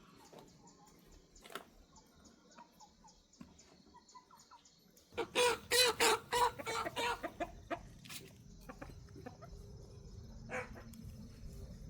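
A chicken clucking: a quick run of loud clucks about five seconds in, lasting around two seconds, after a stretch of faint scattered ticks. A low rumble builds up afterwards.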